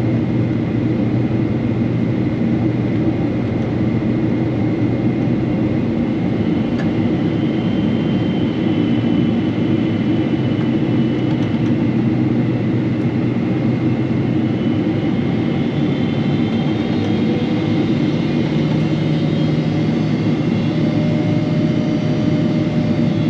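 Jet airliner cabin noise heard from a window seat on a Boeing 777-300: a steady loud rumble of the engines and airflow with a constant high tone. Whining engine tones drift upward in pitch around the middle and again in the second half, as thrust is changed while taxiing after landing.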